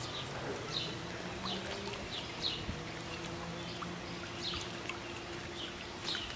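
A bird chirping over and over, short notes that drop in pitch, about one or two a second, over a steady low hum.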